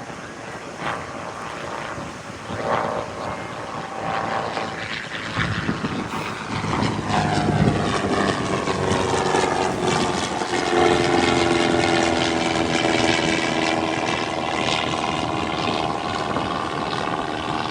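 Propeller airplane flying past, its engine drone growing louder and then dropping in pitch as it passes.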